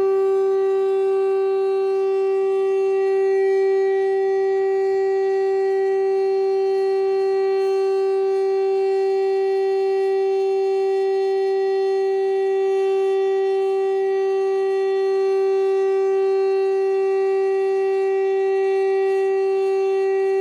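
Federal Signal STL-10 outdoor warning siren sounding the steady Alert signal at full speed: one loud tone held at a constant pitch.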